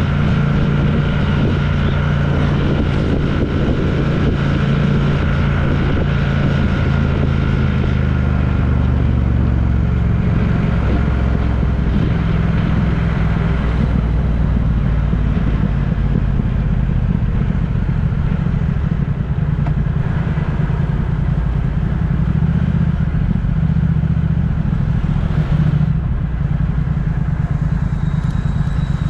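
A road vehicle's engine running steadily while travelling, a constant low drone with road noise over it.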